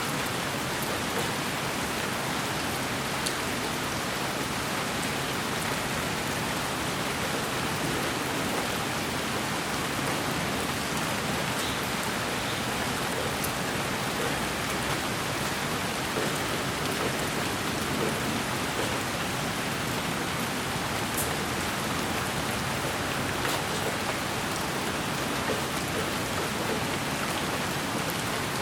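Steady rain hiss, even and unbroken, with a few faint scattered drop ticks.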